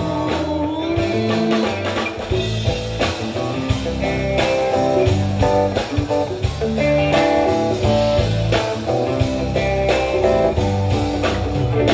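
Live band playing an instrumental passage without singing: guitar lines over bass and drums.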